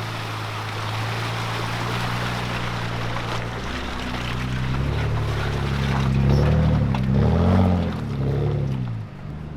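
Off-road truck engine pulling under load. Its pitch rises and falls several times in the second half as it is revved up an obstacle, over a steady rushing noise.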